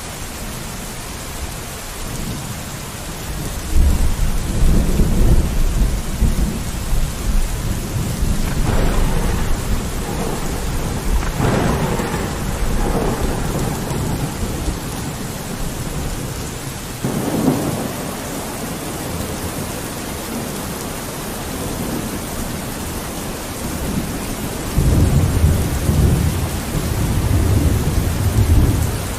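Steady rain on a window with rolling thunder: a long low rumble begins about four seconds in, louder peals follow over the next dozen seconds, and another rumble comes near the end.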